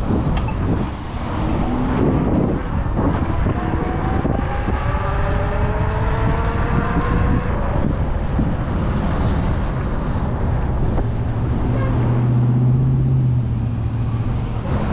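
Wind rumbling on the microphone with road traffic going by. In the middle a vehicle's engine rises in pitch, and a steady low hum comes in near the end.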